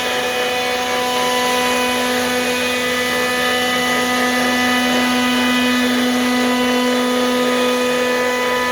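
CNC router spindle running steadily: an even, unchanging machine whine with a clear pitch.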